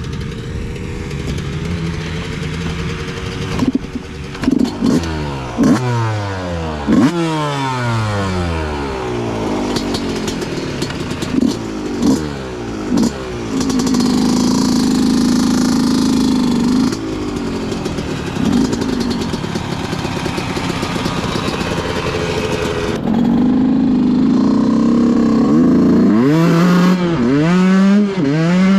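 Dirt bike engine ridden hard: it repeatedly revs up and drops back as it shifts through the gears, with a few seconds of steady high revs in the middle and again near the end.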